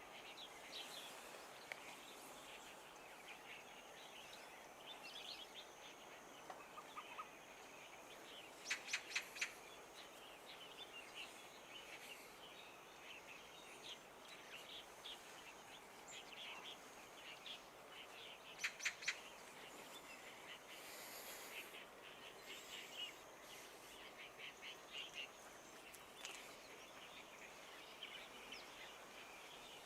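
Faint chorus of small birds chirping, a busy mix of short high calls over open-country background noise. Twice, about a third and about two thirds of the way through, a quick run of four sharp clicks stands out as the loudest sound.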